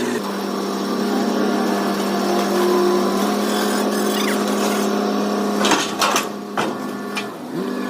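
Doosan excavator running steadily with a constant mechanical hum, with a few sharp knocks about six to seven seconds in.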